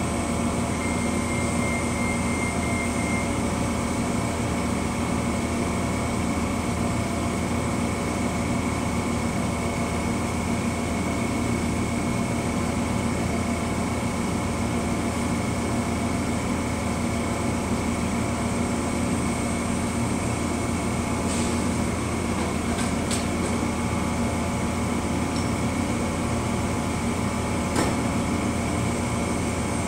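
Steady hum of a stationary Amtrak passenger train idling at the platform, its air-conditioning running, with several fixed tones held throughout. A few faint clicks in the second half.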